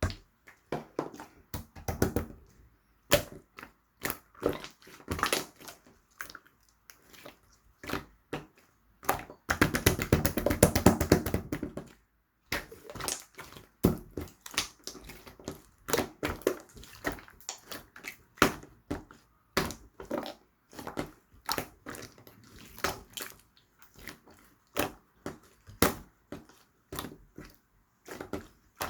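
Slime being squished, poked and pressed by hand, giving irregular sticky clicks and pops. Near the middle there is a dense run of rapid crackling pops lasting about two seconds.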